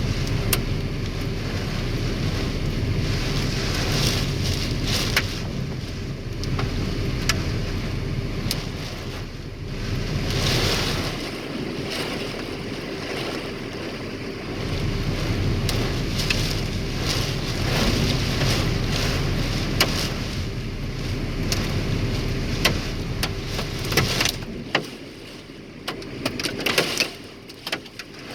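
Hailstones striking a vehicle in many sharp clicks over a steady rumble of wind and running vehicle noise. About 25 seconds in the rumble drops away and the hail hits stand out more clearly.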